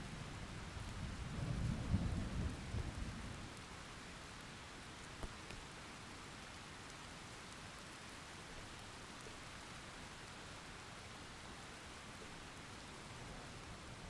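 Steady rainfall with a roll of thunder that swells to a peak about two seconds in and dies away by about four seconds, leaving the rain alone.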